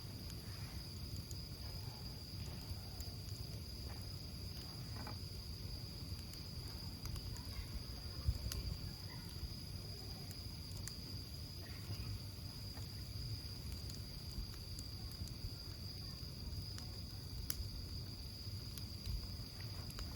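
A wood campfire burning, with a low rumble and sparse crackles and pops; one pop about eight seconds in is the loudest. Behind it, crickets or other insects keep up a steady high trill.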